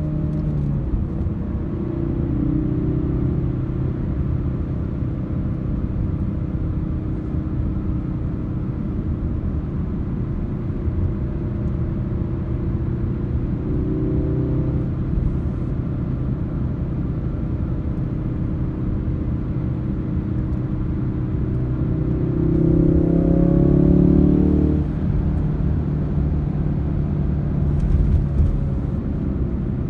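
Ford Focus RS engine and road rumble heard from inside the cabin while driving. The engine pulls steadily, with short rises in revs a couple of seconds in and about halfway, and a longer, louder climb about three quarters of the way through. There are a few brief knocks near the end.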